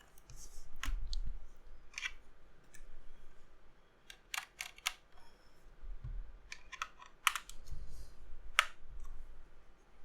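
Irregular plastic clicks and light knocks from a mechanical keyboard with spray-painted keycaps being handled and set in place, with a few dull thumps. Several quick clicks come in a cluster near the middle.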